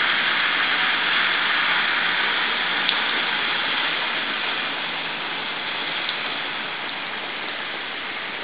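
Steady hiss of rain and running floodwater on a flooded street, easing slightly in level over the second half.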